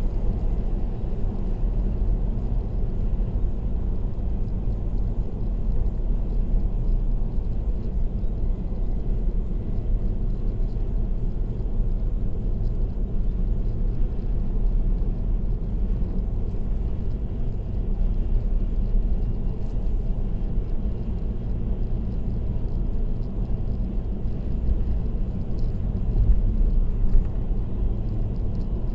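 Steady road noise of a car cruising on an expressway: an even, deep rumble of tyres and engine.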